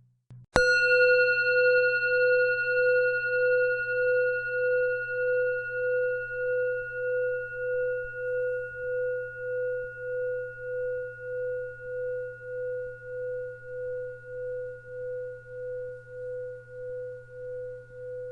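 A singing bowl struck once, about half a second in, then ringing on a single clear pitch with a few higher overtones. The ring fades slowly and wobbles in loudness about twice a second.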